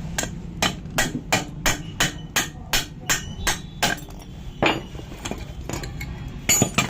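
Hammer blows knocking a worn bearing out of a Hero Xtreme 150cc motorcycle engine, a steady run of about three strikes a second, then a few slower, spaced blows in the last three seconds.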